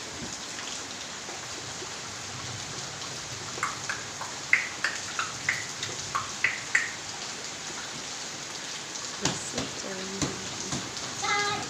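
Heavy rain falling steadily, a continuous hiss of rain on surfaces. A few short, high-pitched squeaks or calls stand out about four to seven seconds in, and a few knocks come near the end.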